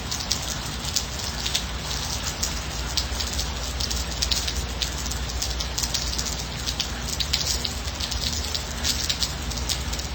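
Gentle steady rain: a continuous hiss with many individual drops ticking sharply on a nearby surface.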